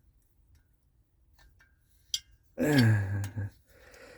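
A man's wordless vocal groan, about a second long and falling in pitch, after a few faint clicks of small metal parts being handled.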